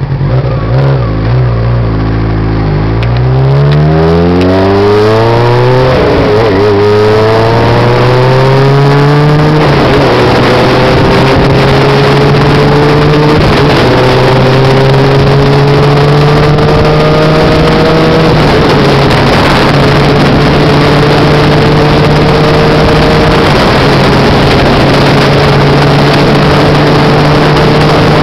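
Honda CBX 750 motorcycle's inline-four engine revving loud: the pitch climbs steadily for about the first ten seconds, then holds high with a few brief small dips, creeping up again after each.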